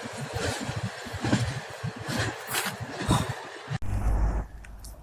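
Freight train passing close by: a steady rushing noise with wheel-on-rail clatter and clicks. It cuts off suddenly near the end, replaced by a quieter low steady hum.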